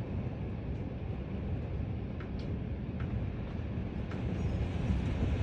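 Severe thunderstorm wind gusts buffeting the house: a steady low rushing that builds a little toward the end, with a few faint ticks.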